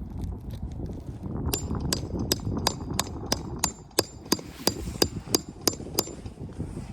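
Hammer blows on a roofing nail: about three quick, evenly spaced strikes a second, each with a light metallic ring, starting about a second and a half in.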